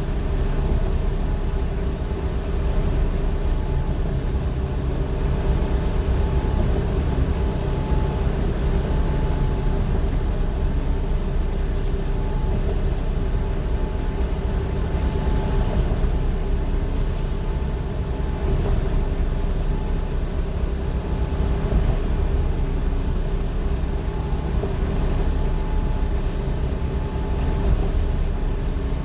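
Motor vehicle running, heard as a steady low rumble with a constant hum.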